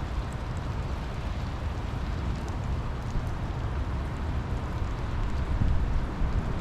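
Steady rain, a dense hiss over a heavy low rumble, with a few faint drop ticks; it grows a little louder near the end.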